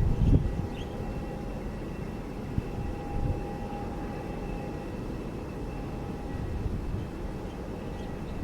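Jet airliner engines with a steady low rumble and a faint steady whine, loud low buffeting in the first half-second.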